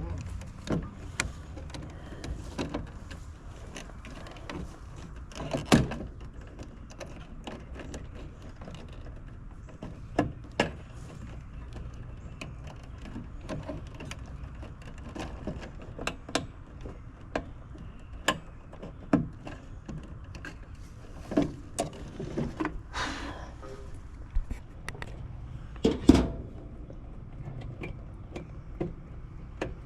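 Irregular sharp clicks and knocks of hand tools and parts being handled during work on an air-conditioning unit's control board, over a steady low hum.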